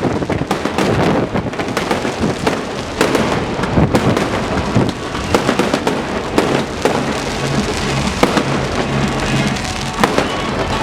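A fireworks display in full swing: many shells bursting in quick, overlapping bangs, with music playing underneath, more clearly in the second half.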